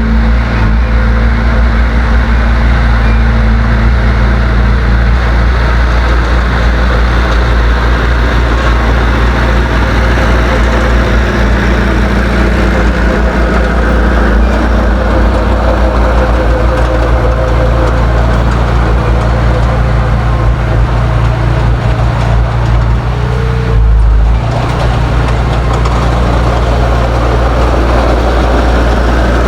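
Heavy earthmoving machine's diesel engine running steadily, with a brief louder, deeper surge about three quarters of the way through, after which it runs a little quieter.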